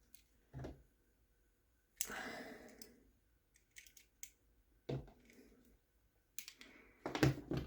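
Small plastic RC truck parts being handled by hand: scattered light clicks and knocks, with a brief rustle about two seconds in.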